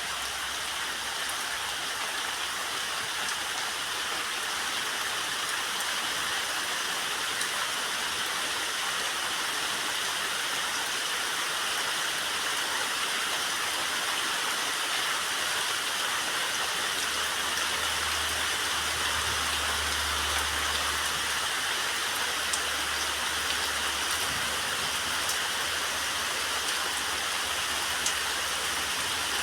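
Steady summer rain falling, an even hiss with scattered drop ticks. A faint low rumble comes in for a few seconds midway.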